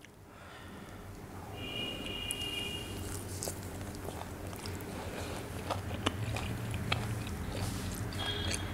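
Close-miked eating sounds: a man chewing a bite of flatbread scooped up with curry, with many small mouth clicks.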